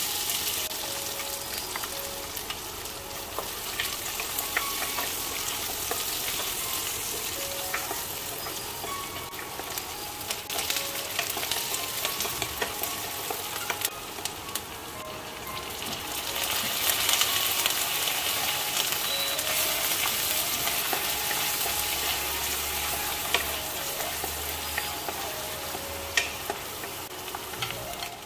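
Chopped onion sizzling as it fries in hot oil in a wok, stirred with a spatula that adds scattered scrapes and clicks. The sizzle starts sharply as the onion goes in and grows louder a little past halfway.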